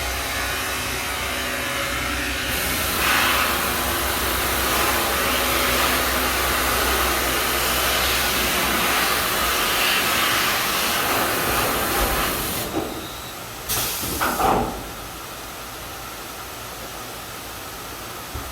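Ski base grinding machine running with a steady, loud hiss and an underlying hum; about fourteen seconds in there are a few sharper loud sounds, after which the noise drops to a quieter steady level.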